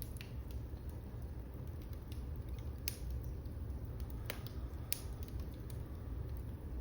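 Wood fire burning in a fireplace: a steady low rumble of the flames with a few sharp, scattered crackles and pops.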